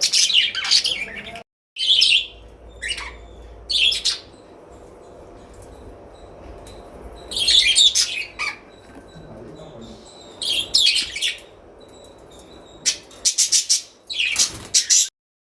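Caged pet birds chirping in short, irregular bursts of high calls, with quieter gaps between them.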